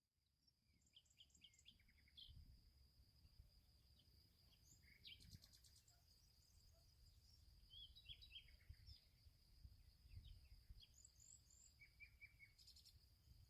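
Faint birdsong: several birds giving short chirps and trills, over a steady thin high tone and a low rumble.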